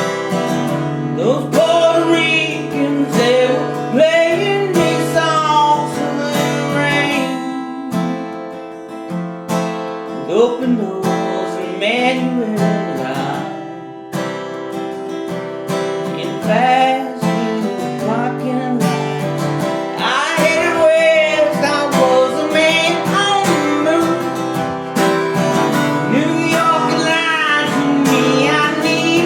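Guitar strummed with a voice singing a song over it.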